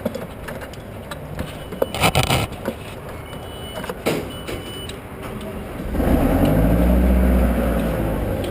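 Clicks and knocks of gear being handled, with a few short beeps, then about six seconds in the boom lift truck's engine comes up loud and keeps running steadily.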